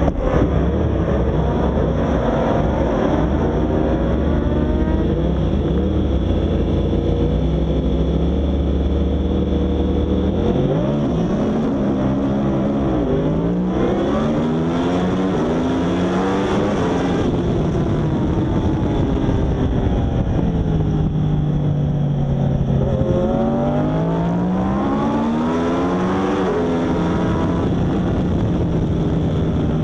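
Yamaha R1 superbike's inline-four engine at racing revs. The pitch holds steady for about ten seconds, then drops and climbs again several times as the bike brakes, shifts down and accelerates back up through the gears.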